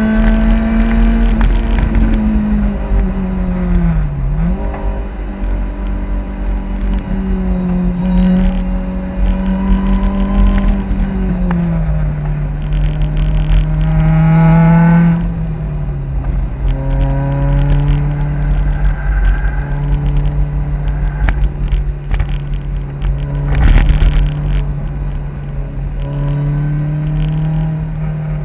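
Lotus Exige S240's supercharged four-cylinder engine heard from inside the cabin, running hard on track, its pitch dropping in steps at gear changes and lifts, with a sharp brief dip about four seconds in. A brief loud thump stands out a few seconds before the end.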